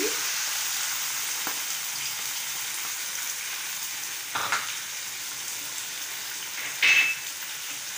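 Onion paste sizzling as it hits hot oil in a non-stick frying pan, a steady frying hiss that slowly eases. A wooden spoon stirs and scrapes the pan twice, about halfway through and again near the end, the second scrape the loudest.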